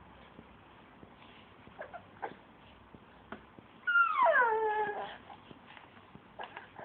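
A dog with hiccups: a few short sharp hics, then about 4 s in one loud whine that falls steeply in pitch over about a second, the dog's annoyance at the hiccups.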